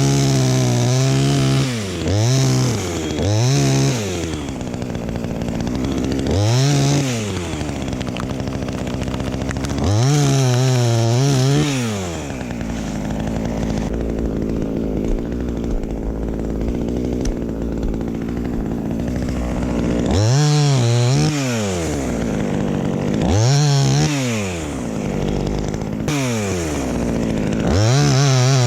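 Two-stroke petrol chainsaw revved again and again to full throttle and let back down, each burst a rising then falling whine lasting about a second. About halfway through it runs steadier and lower for several seconds.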